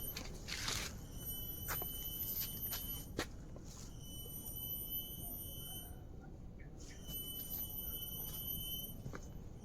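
Forest insects giving a high, steady drone that breaks off twice for about a second, with scattered footsteps on the trail.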